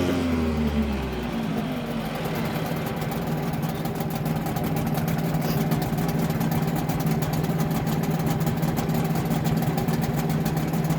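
Rebuilt 4 hp Yamaha outboard engine dropping from a rev in the first second or two, then idling steadily.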